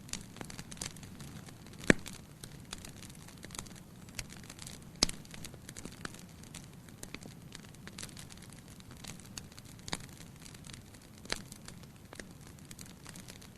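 Firewood burning in a fireplace: irregular crackles and sharp pops over a soft, low hiss of the flames, with two loud pops about two and five seconds in.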